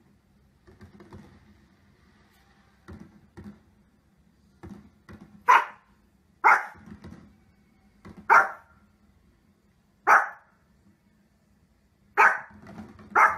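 A small dog, a Pomeranian, barking in sharp single high-pitched barks, about six of them spaced a second or two apart from about five seconds in. Fainter short knocks come before the barking starts.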